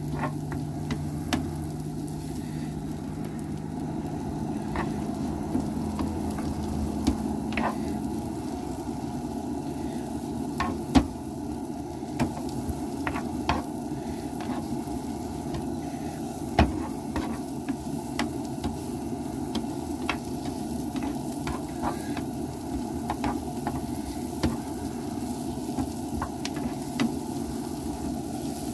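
Cauliflower mushroom pieces sizzling as they fry in melted butter in a frying pan, cooking down toward golden brown. A spoon stirring them clicks and scrapes against the pan now and then, with two sharper knocks partway through.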